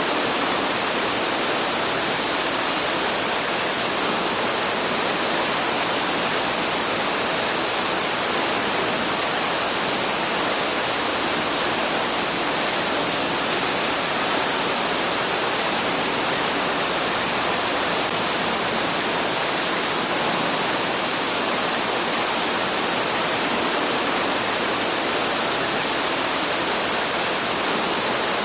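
Waterfall: a steady, even rush of falling water, full of hiss, with no changes.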